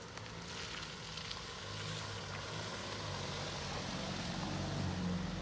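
Passing motor vehicle: a low engine hum over road noise, growing louder from about a second and a half in as it approaches.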